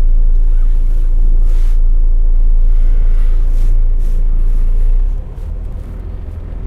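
Semi truck's diesel engine and drivetrain rumbling steadily while driving without a trailer; the rumble drops noticeably about five seconds in as the truck eases off.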